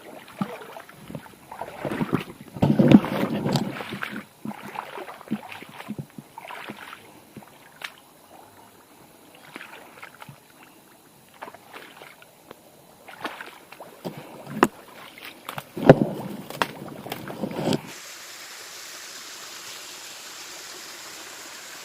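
Irregular splashes and knocks of feet wading and stepping on rocks in a shallow forest stream. About four seconds before the end it changes to a steady rush of flowing water.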